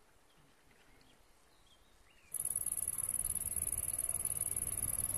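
Faint bird chirps over quiet outdoor ambience. About two seconds in it cuts suddenly to a steady high-pitched hiss and the low rumble of an approaching DB class 442 Talent 2 electric multiple unit, growing louder.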